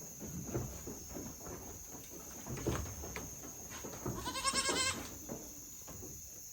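A goat bleating once, a single quavering bleat just under a second long about four seconds in, with scattered soft knocks and shuffling before it.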